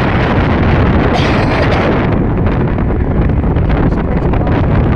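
Wind buffeting the microphone of a device carried on a moving bicycle: a loud, steady rush of noise, heaviest in the low end.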